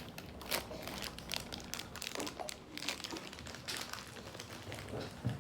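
Plastic toy packaging crinkling and clicking as it is handled, in a few scattered short rustles.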